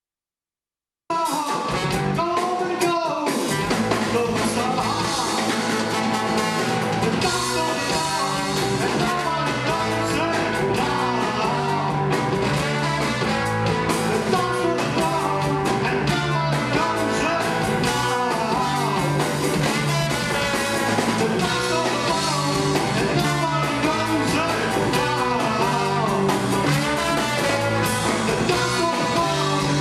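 A rock band's music starting abruptly about a second in, with guitar and drums under a melody line.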